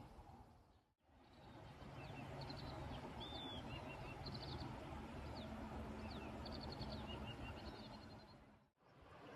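Small birds chirping and trilling faintly in short high phrases over a steady low outdoor background hum. The sound fades out and back in about a second in, and again near the end.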